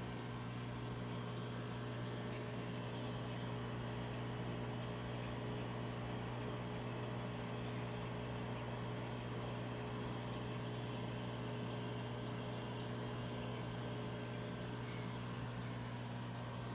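Aquarium equipment running: a steady low electrical hum with a faint even hiss of moving water.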